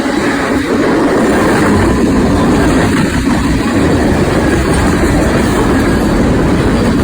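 A train passing close by, its wheels on the rails making a loud, steady rumble.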